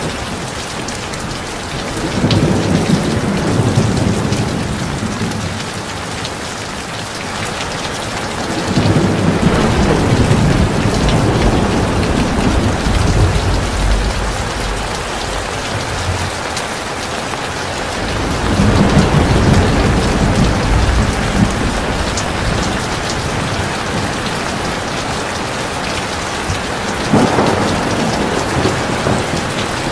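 Heavy rain falling steadily, with four long, low rolls of thunder coming in about every nine seconds.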